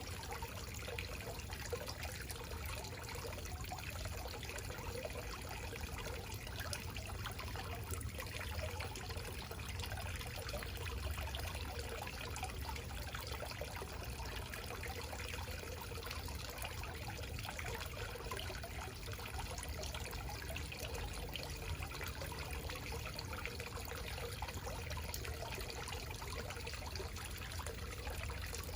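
Backyard waterfall: water falling and trickling in a steady wash, with a low rumble underneath.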